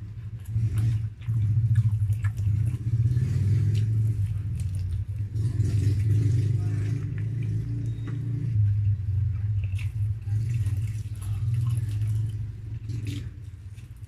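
Close-up eating sounds: chewing grilled chicken and rice, with small wet mouth clicks, over a loud low steady rumble that starts about a second in and fades near the end.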